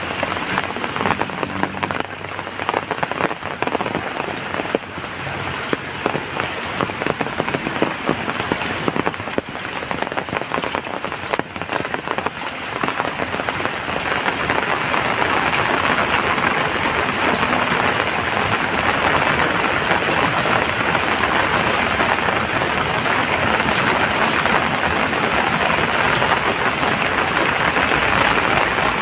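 Heavy rain falling, with many separate drops striking close by. About halfway through it thickens into a steadier, slightly louder downpour.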